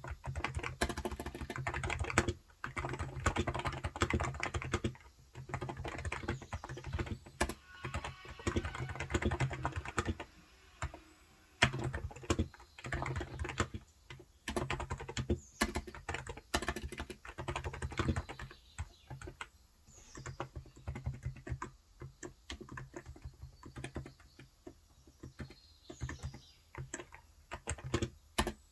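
Cox Endeavor electro-capacitive (Topre-style) tenkeyless keyboard with light 35 g switches, typed on in quick runs of keystrokes broken by short pauses.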